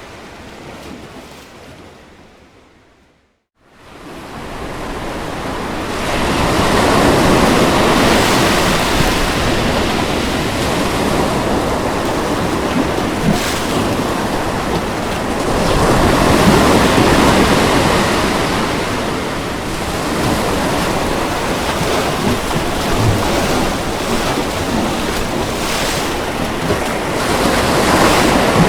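Ocean waves breaking and washing on a shore in slow swells. About three seconds in, the surf fades out to near silence for about half a second, then fades back in.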